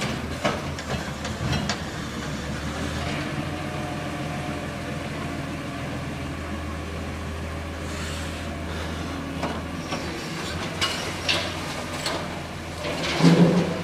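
Garbage truck engine running steadily, with scattered clanks and knocks from the truck working, and a louder burst shortly before the end.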